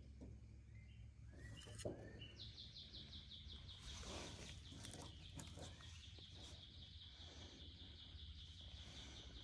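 Faint outdoor ambience with birds chirping: short chirps about a second in, then a rapid, evenly pulsing high trill from about two and a half seconds in, with a few faint clicks.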